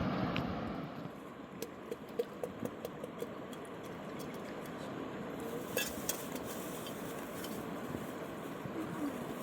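Steady rush of a mountain river, with a short run of light clicks and knocks about two to three seconds in and another sharp click past the middle.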